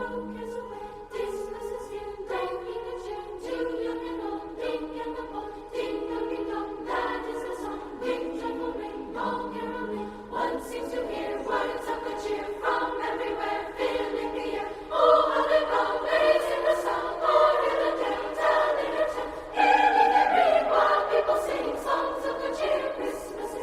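Choral background music: voices singing held chords that change every second or two, swelling louder twice in the second half.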